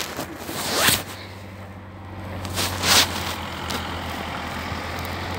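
Motor vehicle engine running with a steady low hum, and two short hissing swells, about a second and three seconds in.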